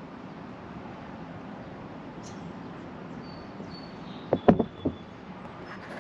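Steady background hiss. A thin high whistle comes in past the middle, and there is a quick cluster of sharp knocks or clicks about four and a half seconds in.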